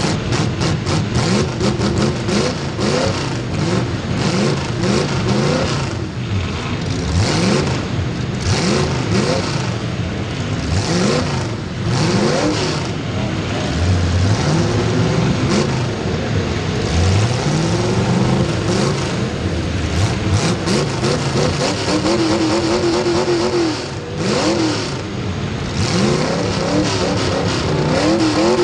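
Several racing engines running hard at once, their pitch repeatedly rising and falling as they rev up and back off through a heat race.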